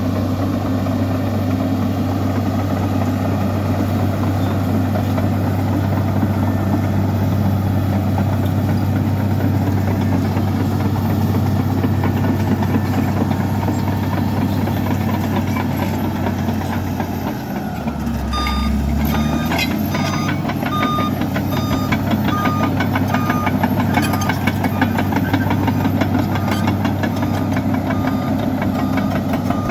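Komatsu bulldozer's diesel engine running steadily; about two-thirds through, its note dips and surges and a reversing alarm starts beeping at a steady rate as the dozer backs up.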